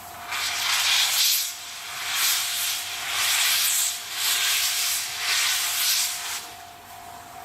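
Steam locomotive exhaust chuffing slowly: five long hissing beats, roughly one a second, starting a little after the beginning and fading out near the end.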